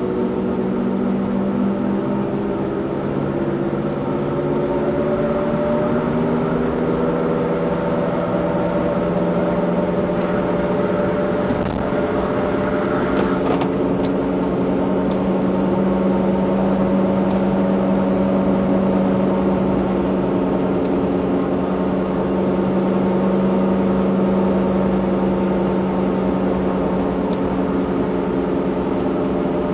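Vehicle engine running under acceleration with a steady droning hum; its pitch climbs slowly over the first few seconds and then holds nearly level.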